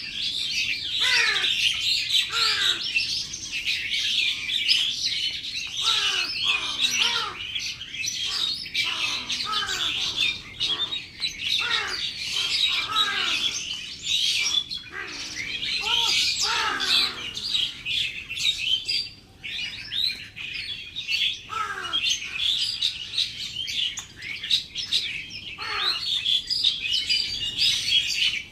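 Many small birds chirping at once in a dense, unbroken chatter, with lower calls that slide down in pitch mixed in every second or so.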